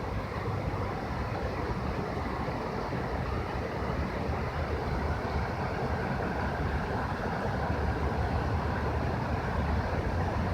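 Steady low rumbling background noise with a hiss above it, with no distinct events.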